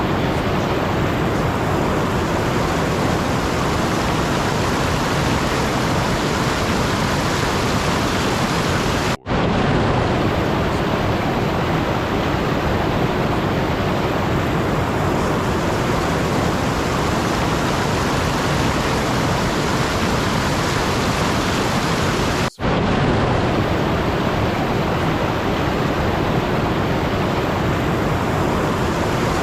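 Steady, even rushing noise like pink noise or a rain ambience track, cutting out for an instant twice, about nine seconds in and again about 22 seconds in.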